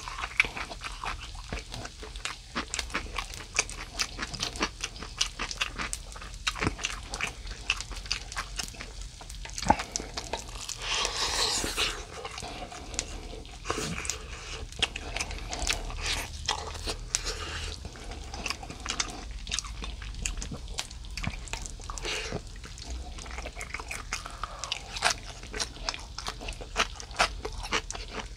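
Close-miked chewing and eating mouth sounds of someone eating grilled mackerel with rice, with frequent small clicks throughout. A short hissing rush comes about eleven seconds in.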